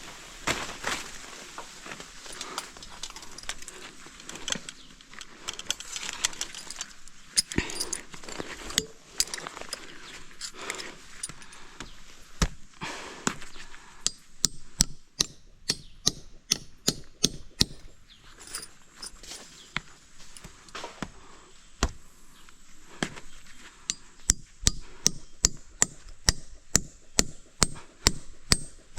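Repeated chopping blows of a blade into wood, irregular at first and settling into a steady run of strokes, about two a second, near the end.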